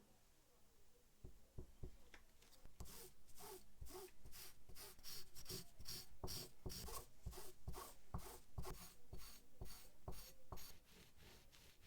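Rapid, even series of short rubbing strokes on a small lighter part by hand, about three a second. It starts a couple of seconds in and stops near the end.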